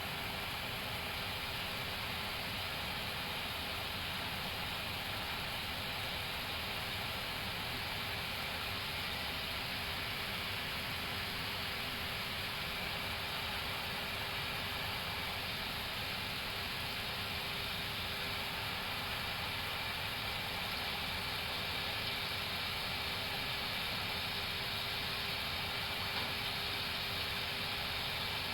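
Steady flight-deck noise of an Airbus A321neo on approach: an even hiss of air with a constant hum, unchanging throughout.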